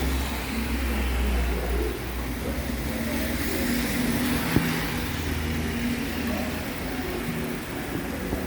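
Motor traffic on a rain-soaked street: a vehicle engine running, its low rumble fading about two seconds in, over a steady hiss of rain and wet road. A single sharp click about four and a half seconds in.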